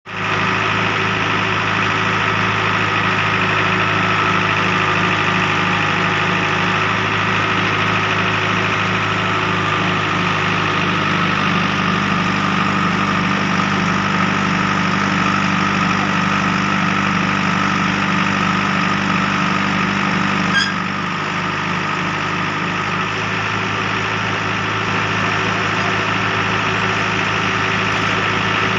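Diesel engine of heavy machinery running steadily, with one sharp click about two-thirds of the way through.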